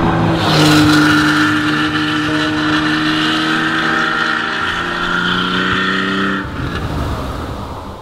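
Porsche 911 3.0 SC's air-cooled flat-six engine running under load at steady, slowly rising revs. About six and a half seconds in the note drops away and fades out.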